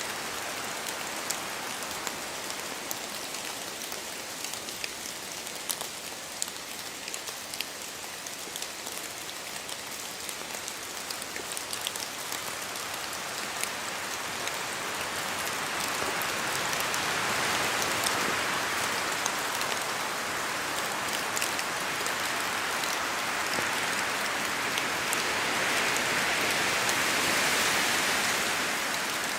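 Steady rain falling in a forest, with many small drops pattering and dripping from the trees. A gust of wind swells the sound through the second half, strongest shortly before the end, then eases.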